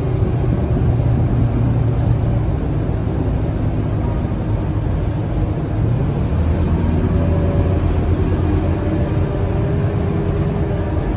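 Scania K230UB city bus's diesel engine running while the bus is under way, over steady road noise; the engine note drops lower about six seconds in.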